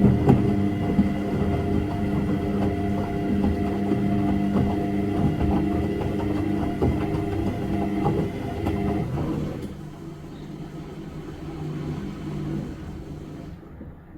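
Washing machine running, its drum motor giving a steady hum with several tones over a rumble and scattered knocks. About nine and a half seconds in the hum drops and gets quieter, and it winds down further near the end.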